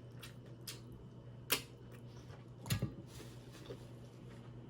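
Scattered sharp clicks of eating and handling snow crab legs, two louder ones about a second and a half and nearly three seconds in, the second with a soft thud, over a faint low hum.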